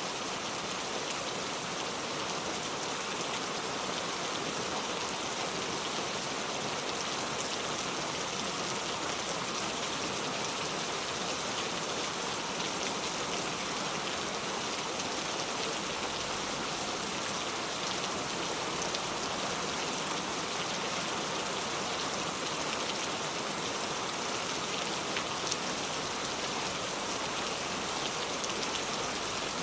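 Steady rainfall pattering on surfaces, an even hiss with scattered drop ticks.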